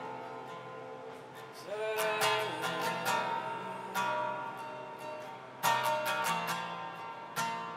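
Worship music: acoustic guitar strumming over sustained chords, with fresh strums about two seconds in, near six seconds and near the end.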